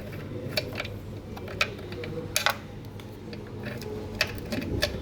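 Irregular metal clicks and taps from hand tools working on the fittings of an electric water heater (geyser) being taken apart, about seven in all, the strongest about halfway through, over a steady low hum.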